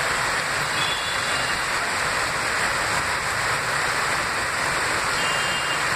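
Heavy rain pouring steadily onto a flooded street: a dense, even hiss.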